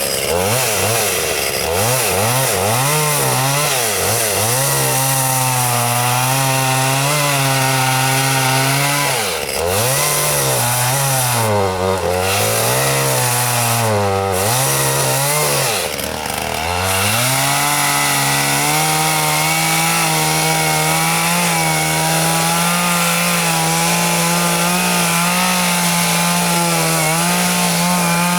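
Small engine running at high revs, its pitch dipping and recovering several times as if bogging under load, then holding steady and high for the last third.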